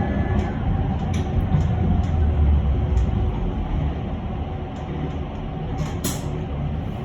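Electric bus running along the road, heard from inside the cabin: low rumble of tyres and road with a faint steady motor whine, and small rattling clicks, the loudest about six seconds in.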